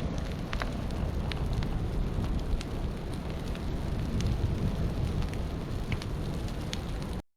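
Forest fire burning, a steady rush with scattered crackles and pops, and wind buffeting the microphone.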